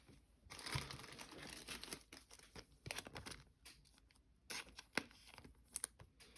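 A trading card pack wrapper being torn open and crinkled, with irregular rustling and a few sharp little clicks and snaps.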